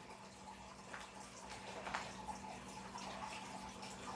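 Faint rustles and a few light clicks of trading cards being handled, over a steady low hum and room hiss.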